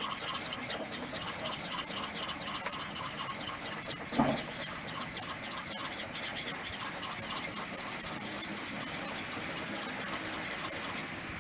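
Steel knife blade being stroked over a Naniwa 1K Chocolate Bar whetstone, a continuous gritty rasp with a high squeal. A single knock comes about four seconds in, and the grinding stops suddenly near the end.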